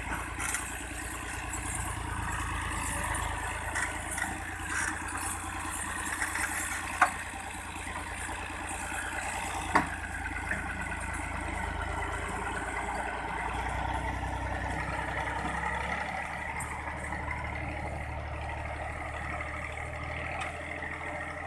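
Tractor engine running steadily, its low note shifting about two thirds of the way through, with two sharp knocks a few seconds apart in the first half.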